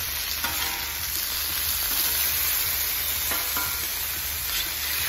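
Diced chicken breast sizzling steadily on a hot flattop griddle, with metal spatulas scraping the griddle as they turn the pieces over.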